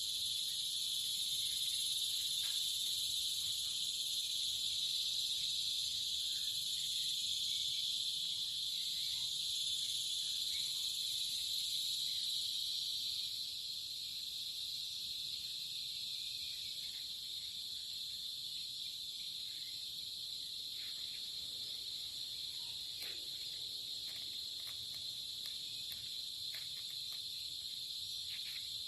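Steady, high-pitched chorus of insects such as crickets, a little quieter about halfway through.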